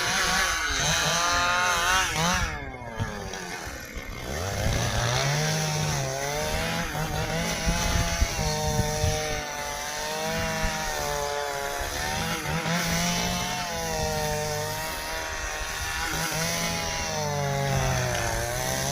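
Stihl two-stroke chainsaw cutting dry ipê hardwood, its engine pitch sagging and recovering again and again as the chain bites. About three seconds in the saw drops off briefly, then revs back up into the cut.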